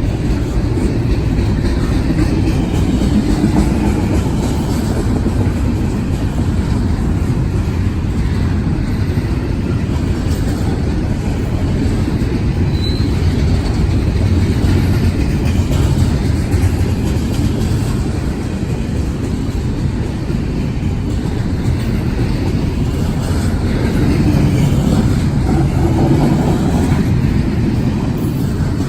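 Freight train of intermodal cars rolling past, a steady loud rumble of steel wheels on rail.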